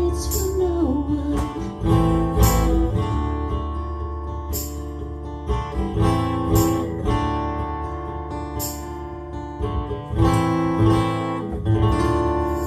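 Acoustic guitar strummed in the closing instrumental passage of a song, with the chords ringing on between strokes.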